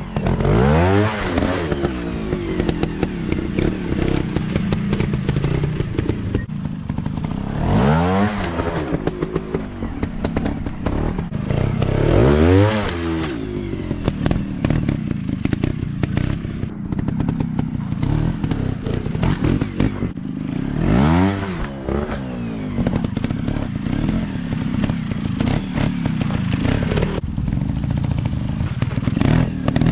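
Small dirt bikes riding a motocross track: engines drone steadily, and five times a bike revs up and falls away as it passes, with some clatter and crackle along the way.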